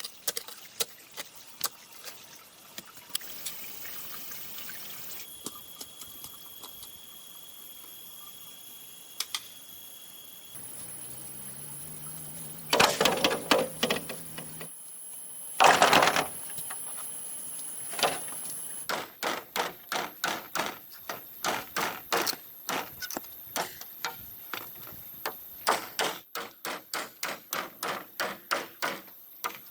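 Hand-tool work on bamboo: scattered sharp knocks, then from about two-thirds of the way in a fast regular run of knocks, about three a second. A steady high-pitched insect drone sounds through much of it.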